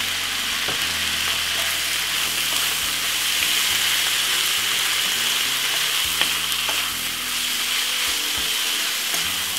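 Pasta and cabbage sizzling steadily in oil in a non-stick frying pan while being stirred and tossed with a wooden spoon, with a few faint knocks of the spoon against the pan. The food is already cooked and is being warmed through.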